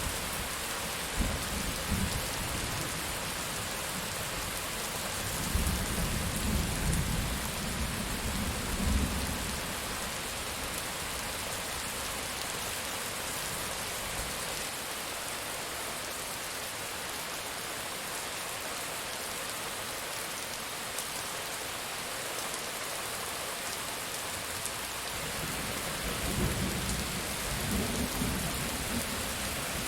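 Steady heavy rain with rolling thunder. Low rumbles swell about a fifth of the way in and again near the end, with a calmer stretch of rain alone between them.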